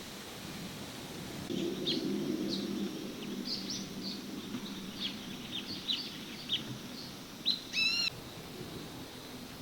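Birds chirping outdoors: a run of short, high chirps, then one louder, fuller call about eight seconds in, over a low background hum.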